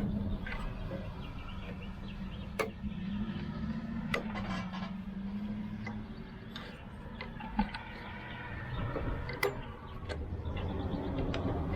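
Scattered sharp clicks and knocks of hand tools and small metal parts while the fuel line is taken off a riding mower's carburetor, over a steady low hum.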